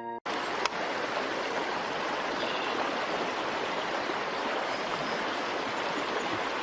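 Steady rush of running water, like a stream, cutting in suddenly just after the start, with a single sharp click about half a second in.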